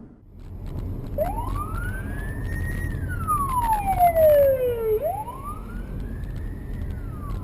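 Emergency vehicle siren sounding a slow wail, its pitch climbing and falling about twice, each rise and fall taking roughly four seconds, over a steady low road rumble.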